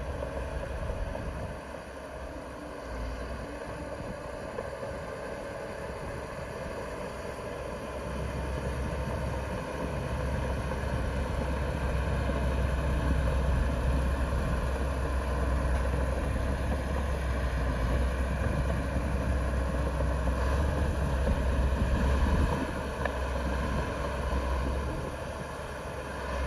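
Heavy diesel earthmoving machinery running steadily with a deep low rumble, growing louder about a third of the way in and easing off again near the end.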